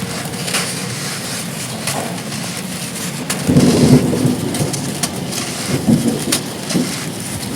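Heavy rain falling steadily, with scattered short crackles, and a low rumble that swells about halfway through and again more briefly near the end.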